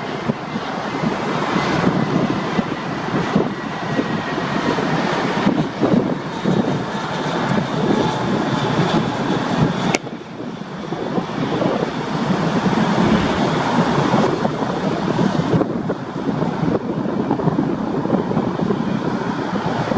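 Airbus A320 jet engines on landing: a steady loud rush of engine noise with a faint high whine in the first half, and a sharp click about halfway through.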